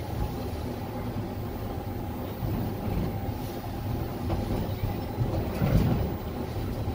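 Wolmi Sea Train car running along its elevated track, heard from inside the cabin: a steady rumble with a faint steady whine, and a louder bump about six seconds in.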